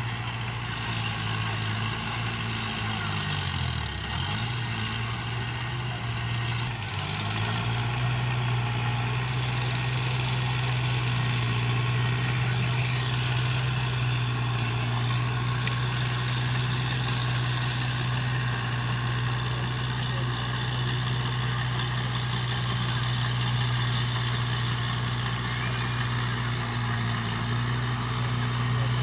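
Heavy diesel engine of an earthmoving machine running steadily. Its pitch dips sharply and recovers twice, about four and seven seconds in.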